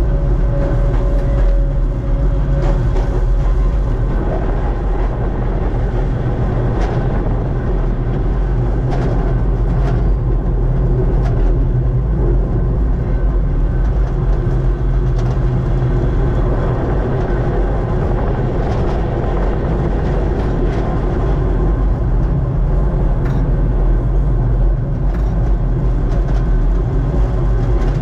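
Kurobe Gorge Railway narrow-gauge electric trolley train running, heard from the driver's cab: a steady rumble of motors and wheels on rail, with scattered clicks from the track. A faint whine fades out in the first few seconds.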